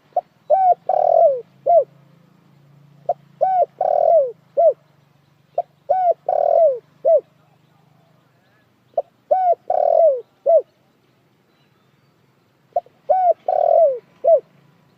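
Spotted dove (dekukur) cooing: five phrases, about every three seconds, each a short run of hollow coos with one longer, louder note near the end.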